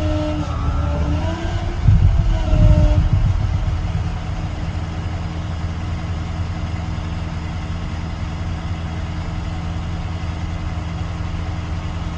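Truck's MaxxForce diesel engine running steadily, with a whining tone that wavers up and down in pitch over the first three seconds and then holds steady.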